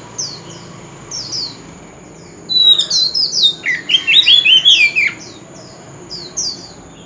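Oriental magpie-robin singing: a run of short, downward-slurred whistles, broken in the middle by a louder burst of rapid, varied notes.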